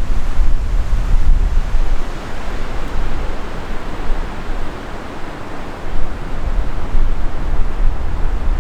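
Wind buffeting the microphone: a gusty low rumble under a rushing noise. It eases in the middle and picks up again about six seconds in.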